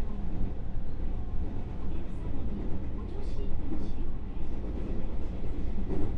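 Running noise of a JR West 221 series electric train heard inside the motor car: a steady low rumble of wheels on rail, with faint short high hisses from the track in the middle.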